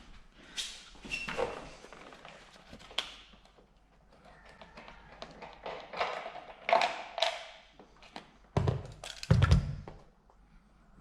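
Handling and fitting of car interior trim: scattered taps, clicks and rustling, then two heavy thumps near the end.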